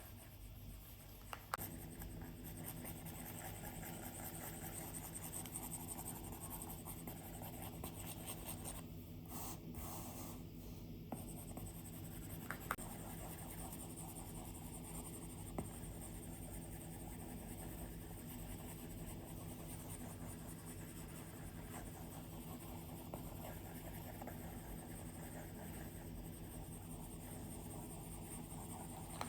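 Stylus drawing on an iPad's glass screen: faint, continuous scratching strokes with a few sharp taps, over a low steady hum.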